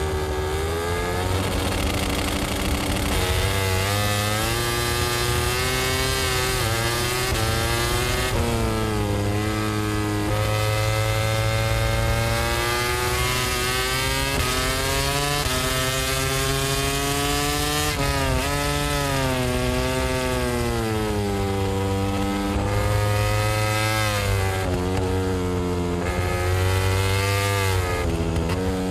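Honda RC213V MotoGP racing motorcycle's 1000 cc V4 engine at racing speed, heard from on the bike. The pitch climbs as it accelerates and drops at each gear change and under braking into the corners, over and over.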